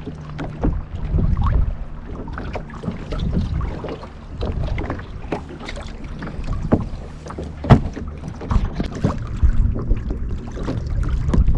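Kayak on choppy water: irregular paddle splashes and water slapping against the hull, with wind buffeting the microphone and one louder knock about two-thirds of the way through.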